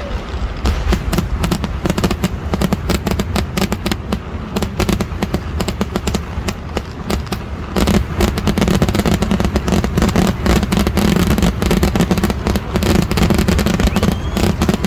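A dense, rapid barrage of firecracker blasts going off in quick succession, growing heavier and louder about eight seconds in.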